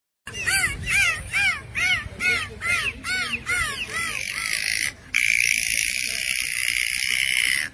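Dolphins whistling: a quick run of about ten short rising-and-falling squeals, two to three a second. From about five seconds in, a steady rush of splashing water takes over.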